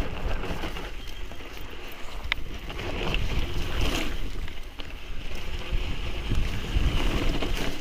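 Mountain bike rolling over a rough trail: wind rumbling on the microphone over tyre noise, with a few sharp knocks from the bike.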